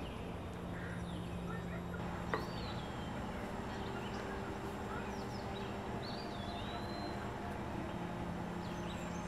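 Birds chirping in short whistled calls over a steady low hum, with one sharp click about two seconds in.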